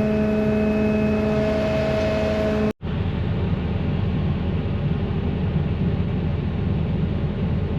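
Heavy diesel engine of a loaded grapple truck running steadily, with a steady whine over the low rumble. The sound drops out briefly about a third of the way in, and after that only a rougher, lower engine rumble remains, without the whine.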